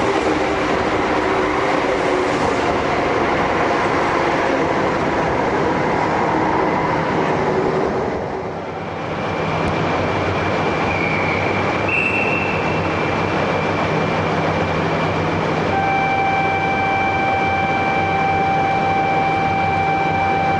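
Shinkansen train pulling out of the station alongside the platform. Its steady running noise dips briefly about eight seconds in as the last car clears, then carries on. Near the end a steady high tone joins it.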